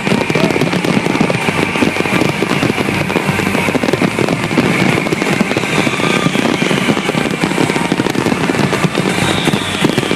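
Fireworks display going off in a dense, unbroken barrage of bangs and crackles, with music playing underneath.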